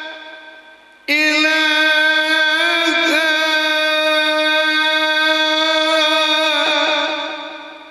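A male Quran reciter's voice holding one long melodic note in tilawah style. It comes in sharply about a second in, wavers briefly in an ornament around three seconds, then holds steady and fades away near the end.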